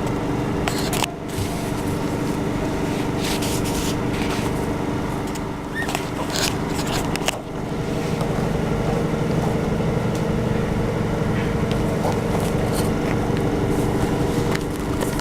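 A steady mechanical hum, with scattered light clicks and scrapes over it.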